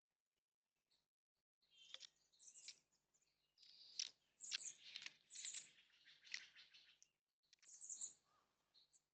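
Faint bird sounds: short, scratchy chirps and clicks in irregular clusters, starting about two seconds in.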